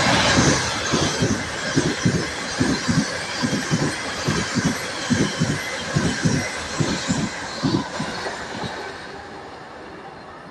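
Train passing at speed, its wheels clacking over rail joints at about three knocks a second over a steady rushing noise, dying away near the end as it goes.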